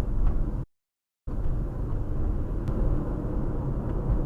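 Steady low road and engine rumble of a moving car heard from inside the cabin, broken by a brief moment of dead silence about half a second in.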